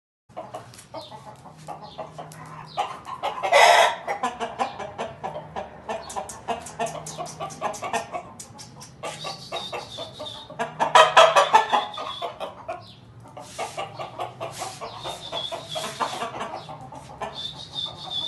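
Aseel chickens clucking, with two louder calls, about three and a half seconds and eleven seconds in, amid many quick clicks. A high steady tone comes and goes in the second half.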